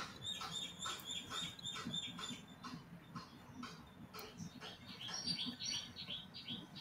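Faint bird chirping: quick runs of short, high chirps repeated several times a second.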